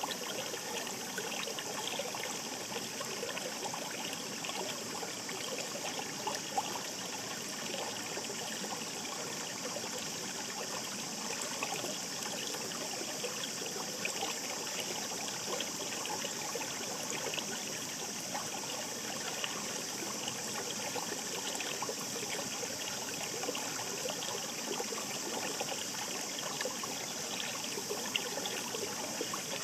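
Shallow stream babbling and trickling steadily, a continuous bubbling rush of water.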